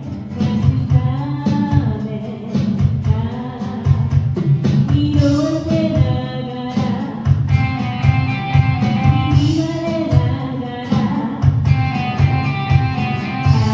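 A live band performing a song: a singer's melody over guitar and a steady beat.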